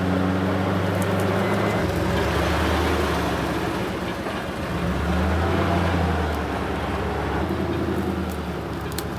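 Tow truck (wrecker) engine running steadily, its pitch shifting up and down a few times as the revs change.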